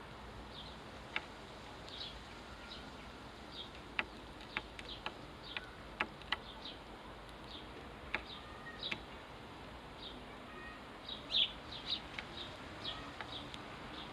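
House sparrows chirping: short, scattered chirps coming in irregular clusters, with a few sharp clicks among them.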